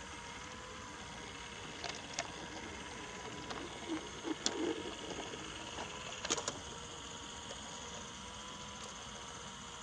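Brio wooden toy train running on wooden track: a steady faint motor hum, with scattered clicks and a few soft knocks from the wheels on the track.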